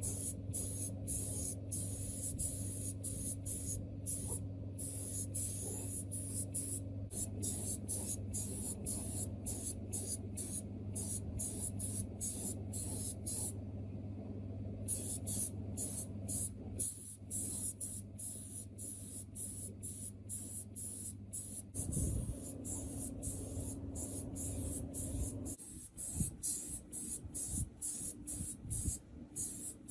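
A steady high hiss, cut by many short regular gaps and dropping out briefly about halfway through, over a low steady hum that shifts in pitch a few times and falls away about three-quarters of the way in.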